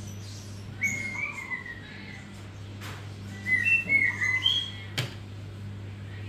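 A bird chirping in short whistled phrases, in two bursts, over a steady low hum, with a sharp click about five seconds in.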